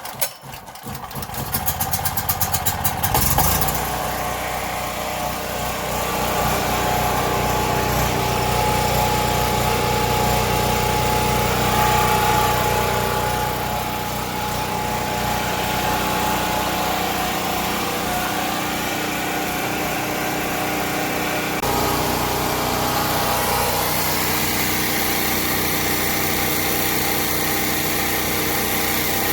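Predator 4000 generator's 212cc single-cylinder engine starting from cold with the choke on: it catches, fires faster and comes up to speed within about three seconds. It then runs steadily and quite loud, and its note shifts slightly about two-thirds of the way through.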